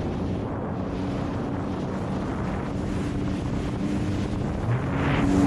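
Sea-Doo GTX Pro 130 jet ski's Rotax three-cylinder engine running steadily at low, GPS-limited speed near the shore, with wind buffeting the microphone; the engine grows louder near the end.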